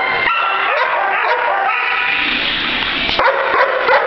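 Many kennelled dogs barking and yipping at once, a continuous overlapping din of barks.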